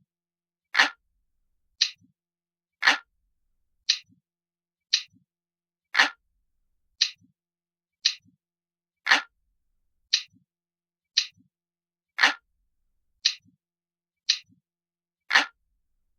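Analog clock ticking steadily, about one tick a second, with every second or third tick fuller and deeper.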